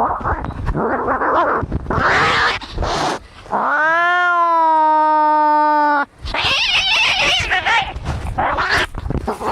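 Fighting domestic cats making harsh, noisy hisses and screeches, with one long drawn-out yowl in the middle that rises in pitch and then holds steady for about two seconds before breaking off into more hissing.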